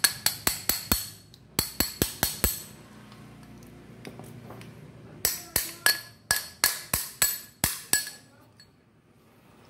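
Hammer tapping on the metal parts of a rotary hammer drill under repair: quick, ringing metal strikes about four a second, in three runs, with quiet pauses between.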